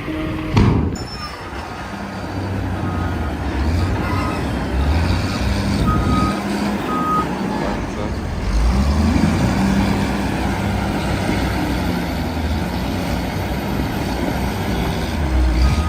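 Heavy haul truck's diesel engine running, its pitch rising and falling as it revs, with several short high beeps from a reversing alarm a few seconds in and a sharp loud knock about half a second in.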